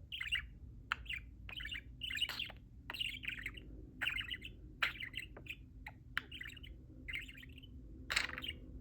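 Pet budgerigar chattering and warbling in quick runs of short chirps and clicks, with a louder burst near the end.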